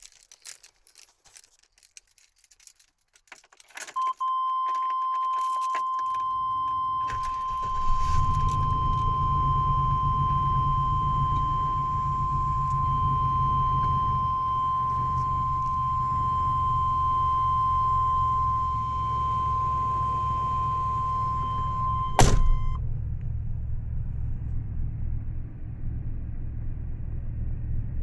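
Keys clicking and jangling, then a steady high warning tone from the 1998 GMC Savana van. About six seconds in its 5.7-litre Vortec V8 cranks, catches at once and settles into a steady rumbling idle. Near the end a single sharp knock sounds and the warning tone stops with it.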